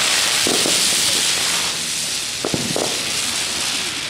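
Ground spinner fireworks spinning on the ground with a loud, steady hiss of sparks, and a couple of sharp pops about two and a half seconds in.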